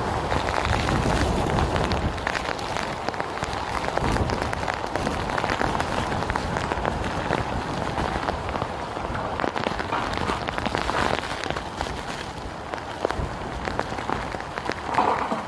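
Heavy hurricane rain beating down on surfaces: a steady rush thick with many small sharp drop hits, all at a fairly even level.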